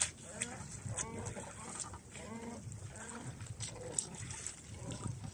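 Faint, indistinct voices talking, with scattered sharp ticks over a low rumble.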